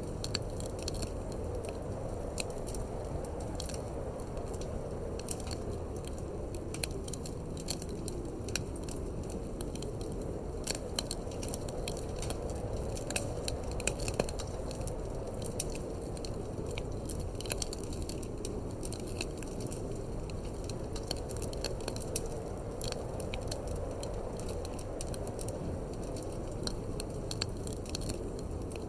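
Wood fire crackling in a fireplace, with frequent irregular sharp pops and snaps over a steady low rumble of wind.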